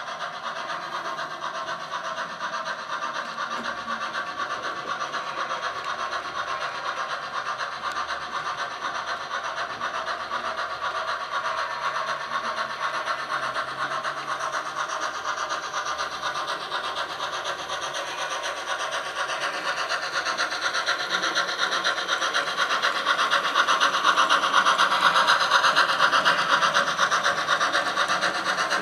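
OO gauge model train running along the track: a steady rolling rattle of motor and wheels on the rails with fast clicking, growing louder as it comes closer and loudest near the end.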